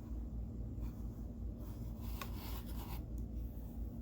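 Clothing or packaging being handled: soft scratchy rubbing and rustling that grows in the middle, with one light click about two seconds in, over a steady low hum.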